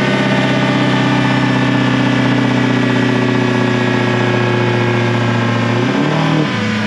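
Diesel truck engine running under steady high speed, as on a chassis dyno, holding one pitch, then falling off in pitch and loudness about six seconds in as the throttle is let off.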